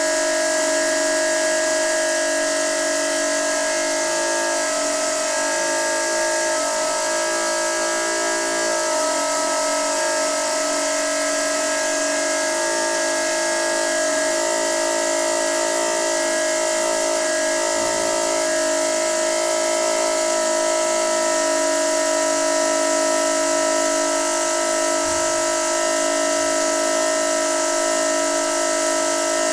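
Noisy water pipe singing with a steady whistling hum of several held tones over a constant hiss.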